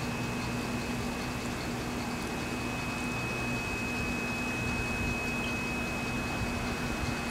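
Steady rain falling, an even hiss, with a constant low hum and a thin high whine running underneath.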